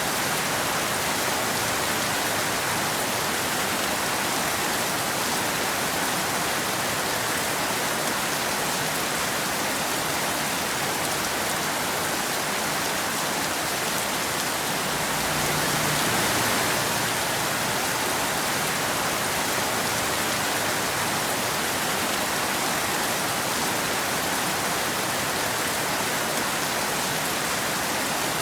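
Steady rain falling, an even hiss of drops on a hard surface. It swells briefly with a low rumble a little past halfway.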